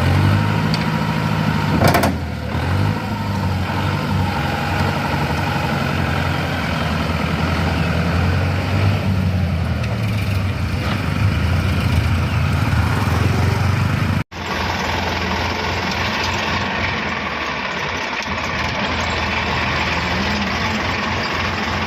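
Tractor diesel engine running, its pitch rising and falling as the throttle changes, with a single sharp knock about two seconds in. About fourteen seconds in the sound cuts out for an instant, then picks up again as a noisier engine sound.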